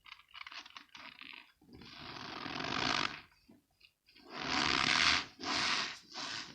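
Balls of packed cornstarch squeezed and crushed by hand, giving squeaky crunches: a run of short ones, a long one that grows louder, then three more in quick succession.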